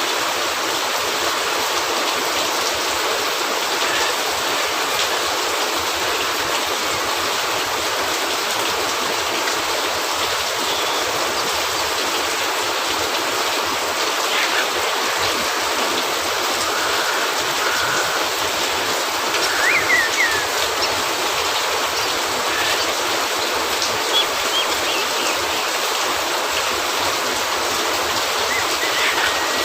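Steady rain falling, an even hiss, with a few faint short ticks and small chirps about two-thirds of the way through.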